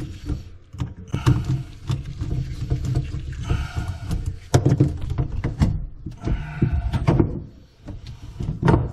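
Irregular knocks, clicks and short squeaks from hands working a rubber Fernco coupling loose from a plastic drain pipe.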